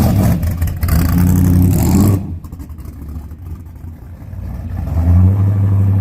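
Classic car engines revving loudly with a deep, pitched engine note. The sound drops off suddenly about two seconds in, then a deep engine note builds up again near the end.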